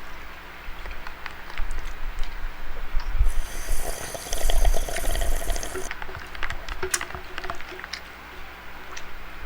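Eating and drinking at a table: scattered small clicks and knocks of food and utensils. From about three seconds in, a drink is sipped with a hiss that lasts nearly three seconds.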